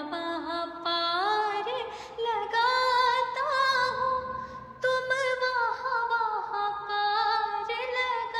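A woman's voice singing a Hindi devotional song, holding long drawn-out notes that glide up and down between phrases, with no clear words.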